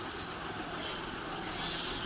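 Birds calling, a short high squawk near the end, over a steady background noise.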